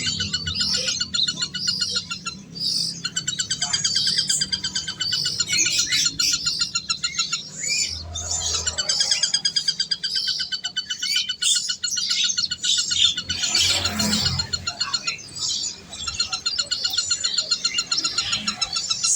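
Several birds chirping and trilling at once in rapid, overlapping runs of repeated high notes.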